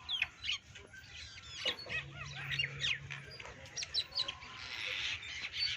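Small birds chirping: many short, quick high calls, overlapping.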